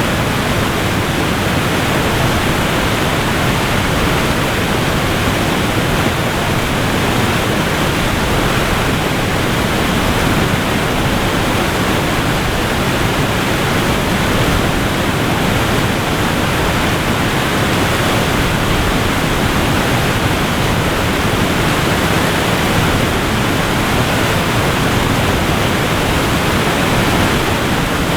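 Waterfall crashing, a steady, even rush of falling water.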